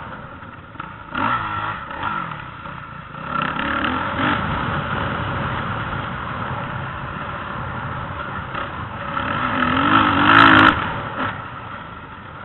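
Motocross dirt bikes revving, the engine pitch rising and falling as the throttle opens and closes. There are several surges, the loudest about ten seconds in.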